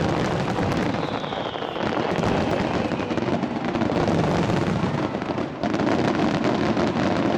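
Starmine fireworks barrage: a dense, continuous run of overlapping bangs and crackles from many shells fired in quick succession, with faint falling whistles early on.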